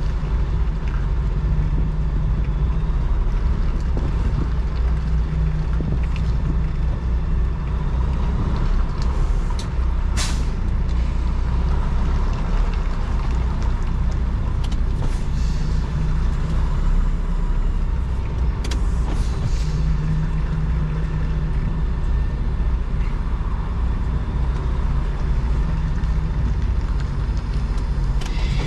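Semi truck's diesel engine running at low speed, heard from inside the cab, as the truck is maneuvered to back into a parking space. Short air hisses from the brake system come about ten seconds in and again near nineteen seconds.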